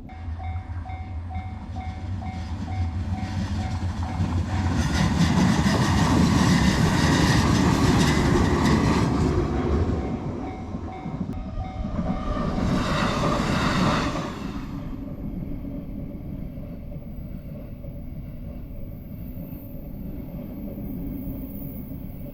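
A train passing over a Japanese level crossing, with loud wheel and rail noise building about four seconds in, while the crossing's warning bell rings in quick, even strokes. The bell stops about twelve seconds in, and the train's noise falls away after a final loud stretch around fourteen seconds.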